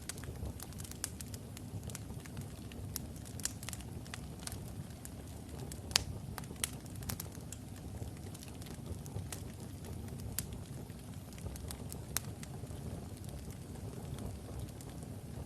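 Wood logs burning in a fireplace: a steady low rumble of the flames with frequent sharp crackles and pops at irregular intervals, the loudest pop about six seconds in.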